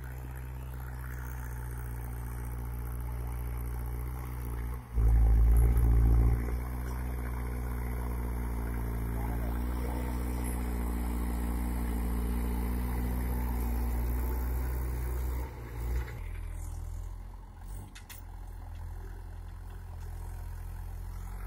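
Mahindra 415 DI tractor's diesel engine running steadily. About five seconds in it gets much louder for a second or two, then settles back. Around sixteen seconds in the note drops lower.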